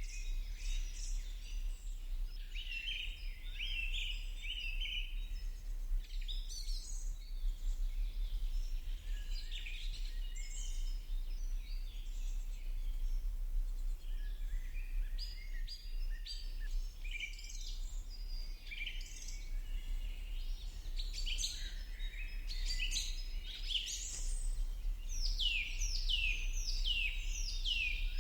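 Several birds chirping and trilling, with a run of quick, evenly repeated falling notes near the end, over a steady low hum.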